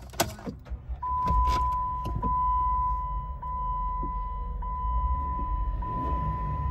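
Jeep Wrangler 3.8-litre V6 being started: a click of the key, then the engine catches about a second in and runs, its idle rising to about 2,000 rpm on the tachometer. A dashboard warning chime sounds throughout as a steady tone, repeating about every 1.2 seconds.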